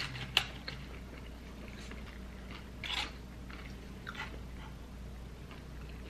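Close-up mouth sounds of a person chewing a mouthful of steak taco, with scattered wet smacks and small crunches. A sharp click about half a second in is the loudest sound, and there are a few more smacks around three and four seconds.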